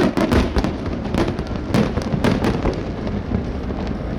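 Fireworks display: a dense, irregular run of overlapping bangs and crackles from bursting shells, several a second.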